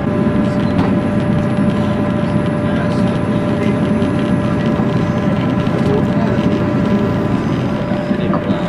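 Diesel train running at speed, heard from on board: a steady low rumble of engine and wheels with a steady whine over it.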